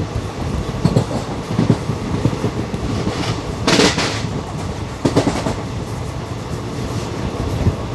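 The 16512 Kannur Bengaluru Express in motion, heard from on board: a steady rumble of wheels on rail with occasional knocks as the wheels pass rail joints. There is a louder, harsher burst a little under four seconds in.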